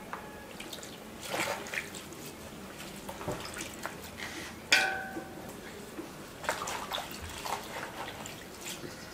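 Vegetables being washed by hand in a basin of water: irregular splashing and dripping as they are swished and lifted out, to rinse off sand. A single sharp ringing clank stands out about halfway through.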